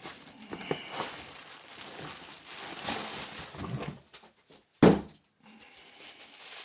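Packaging being handled and unwrapped, an uneven rustling and crinkling, with one sharp loud knock about five seconds in.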